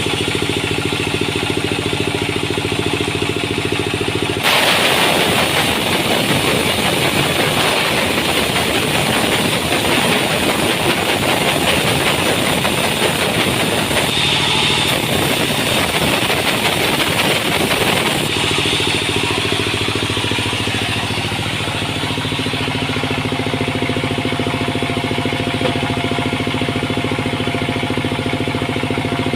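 Sawmill machinery running steadily with an engine hum. For about fourteen seconds in the middle, a louder, harsher noise comes in and cuts off suddenly, as the saw works through the wood.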